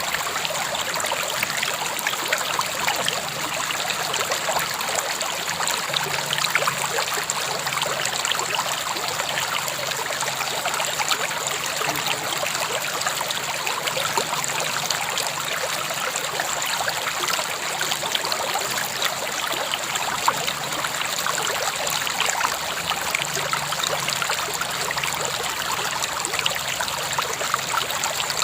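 A river or stream flowing steadily over stones, a continuous rush of water full of small splashes and trickles.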